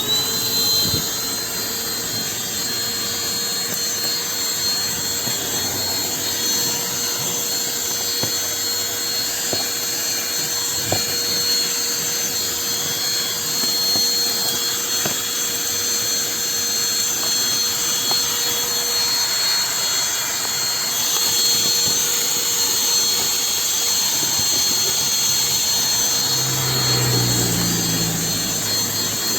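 Cordless handheld vacuum cleaner switched on and running steadily, a high-pitched motor whine over a lower hum, with some added low rumbling near the end.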